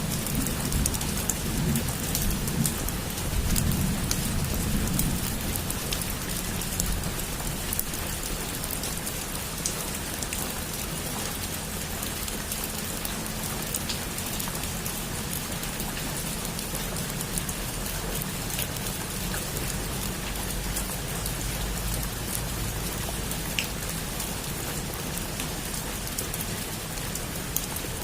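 Heavy rain falling steadily on a rooftop, a dense hiss with scattered drop ticks. A low rumble comes through in the first few seconds.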